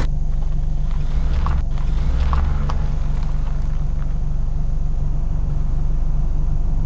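Car engine running steadily as the car pulls away and drives on, a low hum with a deeper rumble from about one second to nearly three seconds in.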